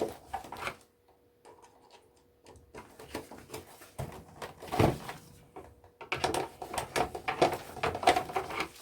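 Clicks, knocks and rattles of a plastic projector being taken apart by hand, with a near-quiet spell about a second in, one firmer knock midway and a busier run of clicks and rattles over the last few seconds.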